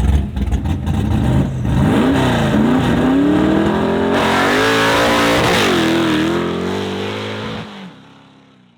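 Drag car engine running rough and uneven, then accelerating hard on a street launch, its pitch rising and dropping several times as it pulls. It fades away near the end.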